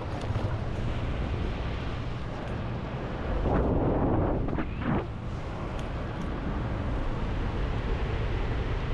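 Steady low rumble and wind rush on the microphone in paramotor flight, with a louder rush of air about three and a half seconds in that lasts over a second.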